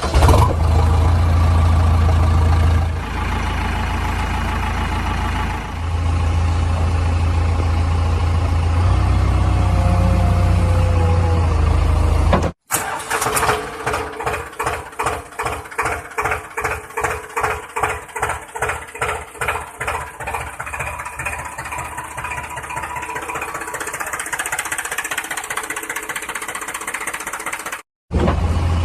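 An engine running with a steady low hum. After a brief break about halfway through, an engine chugging in an even rhythm of about two beats a second.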